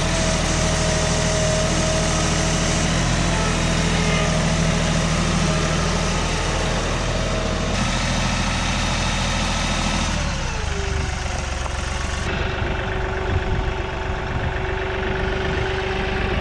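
A large engine running steadily at idle, with a high whine that drops in pitch about ten seconds in and then holds at the lower note.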